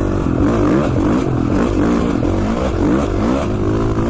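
2017 KTM 450 XC-F's single-cylinder four-stroke engine revving up and down in quick repeated surges, about five or six rises and falls, as the dirt bike is ridden hard through whoops.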